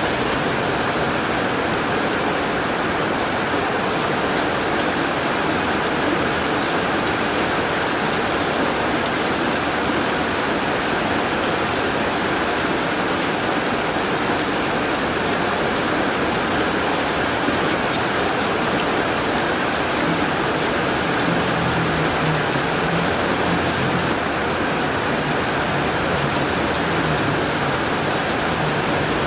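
Heavy rain falling steadily on a tin roof, with many fine drop impacts. A low rumble joins in during the last third.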